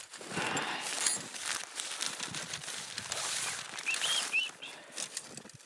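Rustling and flapping of nylon tent fabric being handled, with scattered clicks and two short squeaks about four seconds in.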